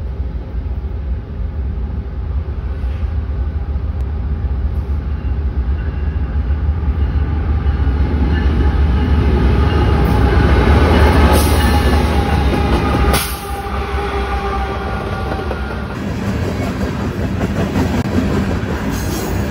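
Diesel freight train passing close by. The locomotive's engine rumble builds to its loudest past the middle and drops off sharply a little later. The rolling noise and clatter of the wheels under the double-stack container cars follows.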